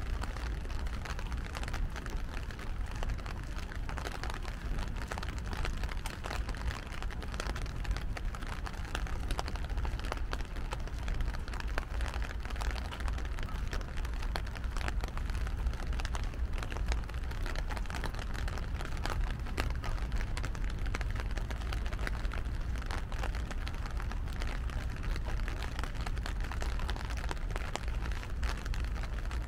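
Steady rain falling, with many small, sharp raindrop hits throughout over a low, steady rumble.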